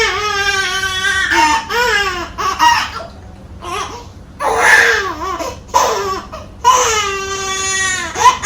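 Infant crying hard after vaccination injections: long, high-pitched wails broken by gasping breaths, with a quieter lull about three to four seconds in.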